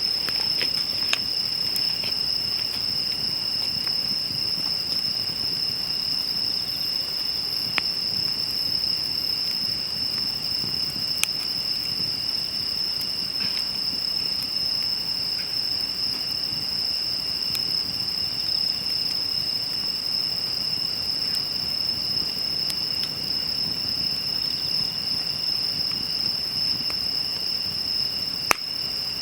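Crickets trilling steadily and unbroken at a high pitch, over a crackling wood campfire that gives a few sharp pops, the loudest near the end.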